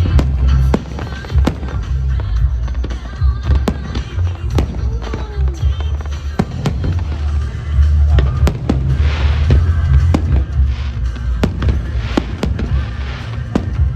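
Fireworks display: a steady run of sharp bangs over deep rolling booms, with music playing.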